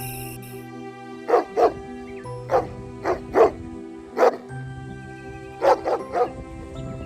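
A dog barking, about nine sharp barks in quick runs of one to three, over steady background music.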